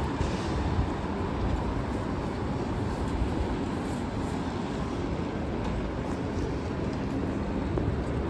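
Steady city-street ambience in heavy rain: an even rush of rain with a low, continuous traffic rumble underneath.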